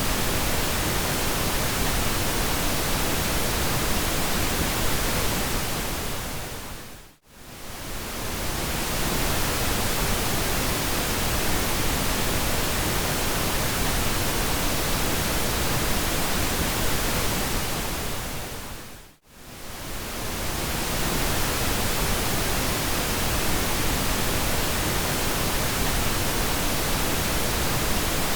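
Steady synthetic pink noise, an even hiss spread across the whole range. It fades briefly almost to silence and back about seven seconds in and again about nineteen seconds in.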